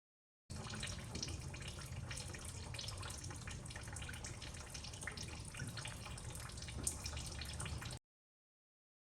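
Honda V6 engine running, with a low hum under an irregular tapping, a tick-like noise traced to the rear-bank timing belt area, where the belt has a lot of slack. The sound starts and stops abruptly.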